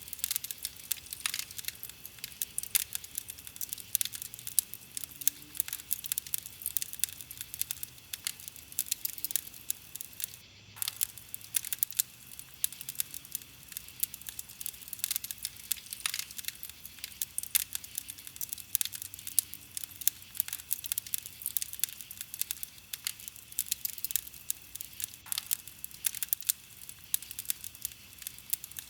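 Campfire of burning wood crackling: a dense, steady run of small sharp crackles, with a few louder pops scattered through.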